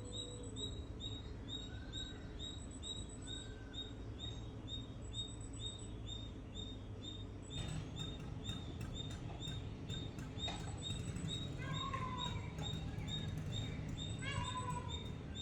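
Birds chirping: a short high note repeats about two or three times a second, and a few lower, arched calls come in now and then. A steady low background runs underneath, with faint clicks in the second half.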